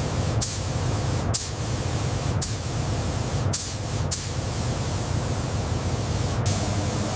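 Steam locomotive venting steam: a loud, steady hiss over a low rumble, broken by several sudden cuts.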